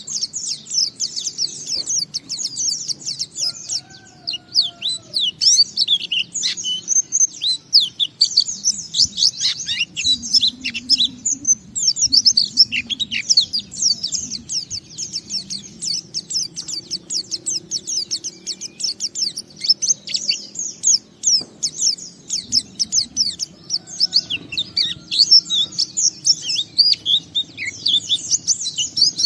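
Pleci (white-eye) singing in the long, continuous 'ngalas' style: a rapid, unbroken stream of high-pitched chirps and twittering trills, with only short lulls.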